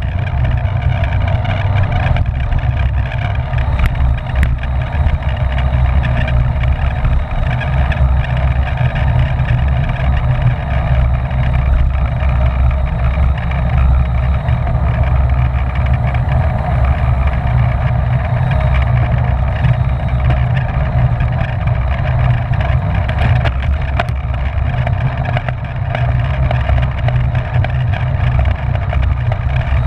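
Wind rushing over the microphone of a camera mounted on a racing bicycle ridden at speed, a steady heavy rumble with a hiss of moving air and tyres on it.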